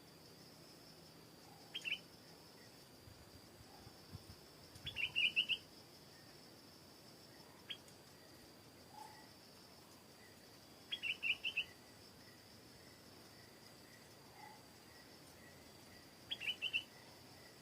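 Stripe-throated bulbul calling: four short phrases of several quick high notes, a few seconds apart, over a steady high-pitched background tone.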